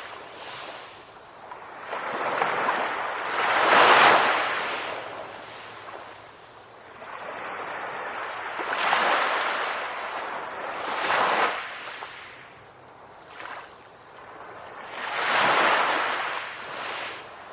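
Ocean waves breaking on a shore and washing back, swelling and easing in about five surges, one every few seconds.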